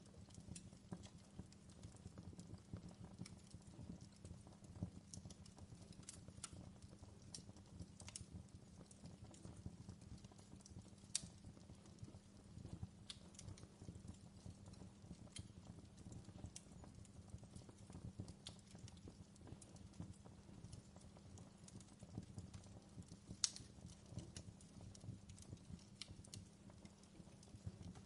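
Faint wood fire crackling: a steady low rumble with frequent small sharp pops, two louder pops about eleven and twenty-three seconds in.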